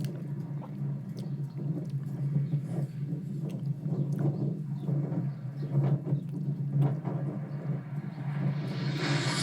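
Jet aircraft rumble from an airshow video playing through computer speakers, with a loud rush of jet noise building near the end.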